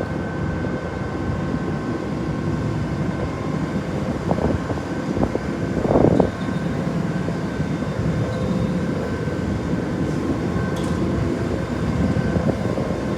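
Steady drone of a lake cruise boat's engine, with a faint constant hum over it and a brief louder noise about six seconds in.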